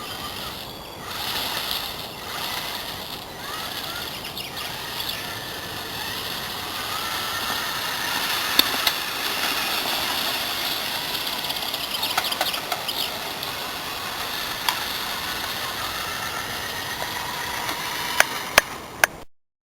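Motor and gears of a homemade radio-controlled trial truck whining as it drives, the pitch rising and falling with speed. A few sharp clicks come near the end.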